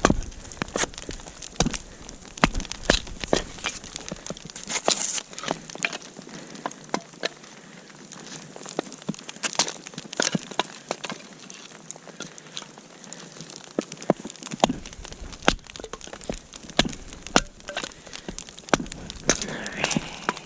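Irregular sharp cracks and knocks of sticks and firewood being handled and snapped while a campfire is laid, several a second and uneven in loudness.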